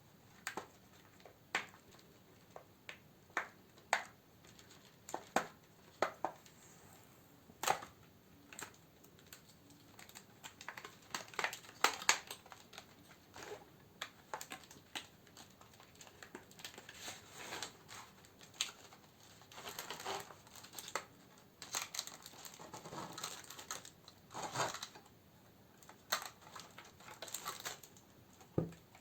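Plastic wrapping and paper crinkling as candles are handled and sorted, with separate light clicks and taps at first, then longer stretches of denser crinkling.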